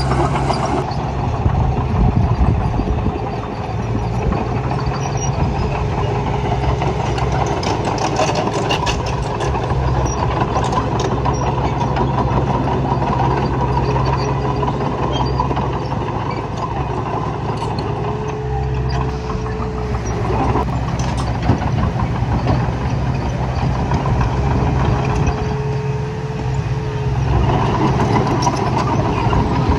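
Heavy earthmoving machinery running: a steady diesel engine drone with scattered metallic clanks, and a short steady whine twice in the second half.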